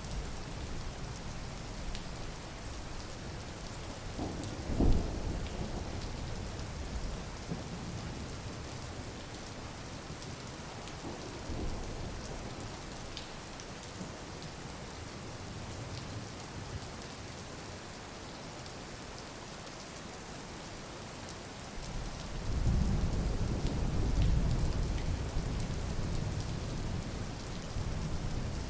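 Steady rain falling, with one short low thump about five seconds in and a low rumble of thunder that swells up near the end and rolls on.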